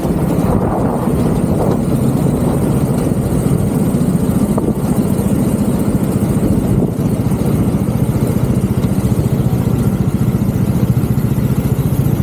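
Go-kart engine running at a steady, low pitch, without revving up or down.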